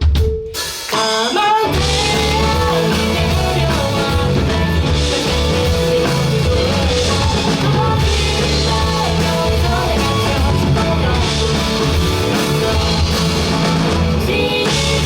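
A live band playing a rock-style song, with drums, bass and guitar. The band sounds thinner for the first second or so, then comes in fully.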